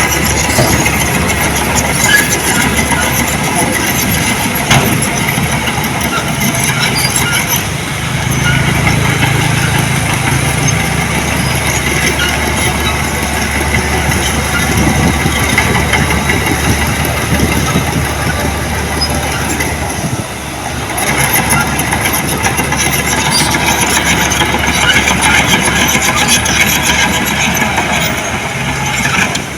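Diesel engine of heavy earthmoving equipment running steadily, with a brief drop in level about two-thirds of the way through.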